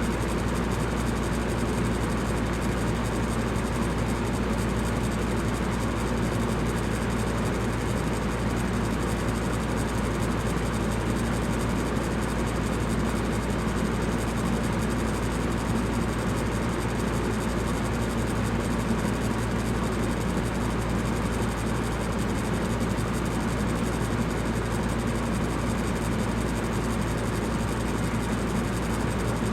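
Electric fan running steadily: an even rush of air with a low, unchanging hum underneath.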